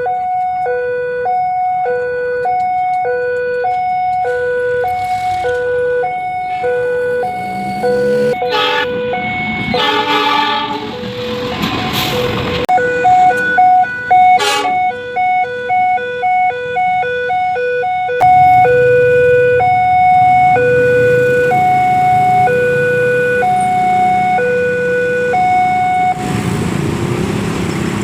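Railway level-crossing warning alarm sounding a repeating two-note electronic signal, which speeds up for a few seconds about halfway through. A loud horn blast cuts across it about ten seconds in, and a rumble of traffic or a passing train builds near the end.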